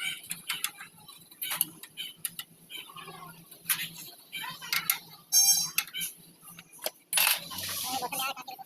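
Metal clinking and clattering as hand tools and engine parts are handled, in irregular sharp knocks, with a brief rapid run of clicks about five and a half seconds in.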